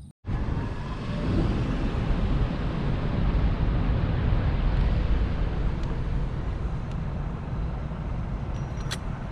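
Kawasaki Balius II's 250 cc inline-four running under way through an RPM 4-2-1 aftermarket exhaust, heavily mixed with wind rush on the microphone. It starts suddenly just after the beginning and holds fairly steady, with a few sharp clicks near the end.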